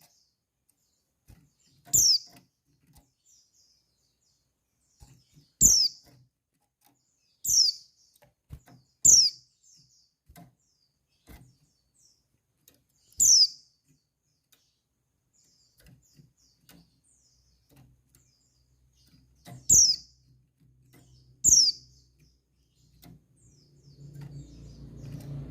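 Female white-eye (pleci) calling: short, sharp chirps that slide downward, seven loud ones a few seconds apart with fainter calls between, the call used to lure and stimulate males. A low hum comes in near the end.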